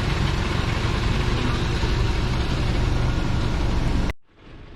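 A vehicle engine idling with a steady low rumble, cutting off suddenly about four seconds in and leaving a quieter background.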